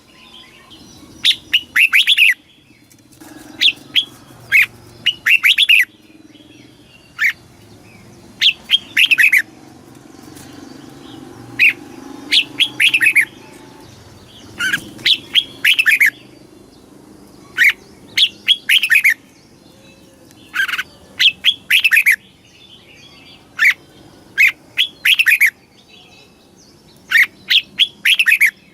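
Red-whiskered bulbul singing: short phrases of quick, falling whistled notes, repeated every second or two, over a faint low hum.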